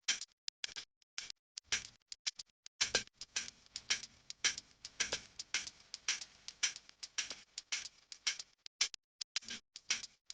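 Irregular light clicks and taps, a few a second, with short pauses between runs of them.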